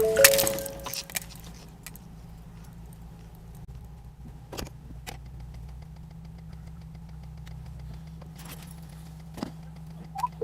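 Car engine running with a steady low hum, with a few faint clicks. It opens with the fading tail of a crash and a brief steady tone lasting about a second.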